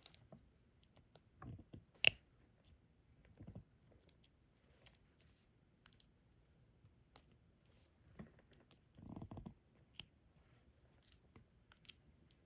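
Faint small clicks and taps of a diamond painting pen picking up resin drills and pressing them onto the sticky canvas, with a few short soft rustles; the sharpest click comes about two seconds in.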